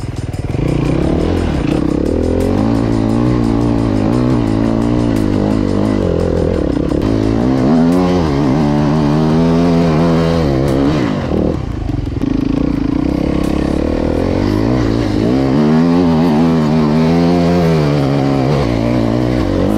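Enduro dirt bike engine being ridden hard through deep snow, its pitch rising and falling over and over with the throttle.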